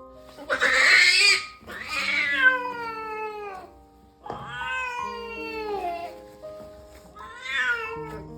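An American Shorthair queen in labour yowling: a harsh, raspy cry, then three long drawn-out calls that each slide down in pitch, the last one shorter.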